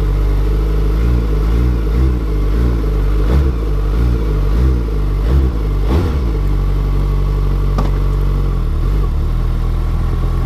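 Suzuki Hayabusa third-generation 1340 cc inline-four on its stock exhaust, idling after a cold start. Its throttle is blipped in a row of short revs for the first six seconds or so, then it settles back to a steady idle.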